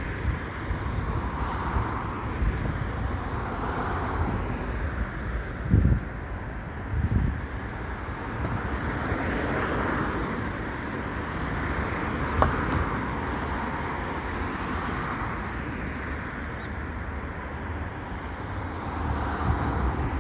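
Road traffic noise, with gusts of wind buffeting the microphone.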